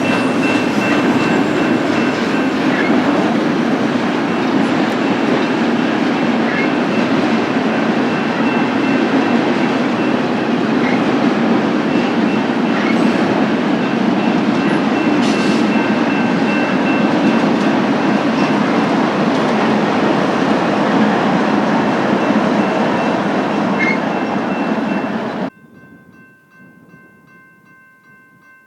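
BNSF freight train cars rolling past in a steady, loud rumble of wheels on rail, with a few faint squeaks and ticks. It cuts off abruptly about 25 seconds in, leaving only faint steady tones.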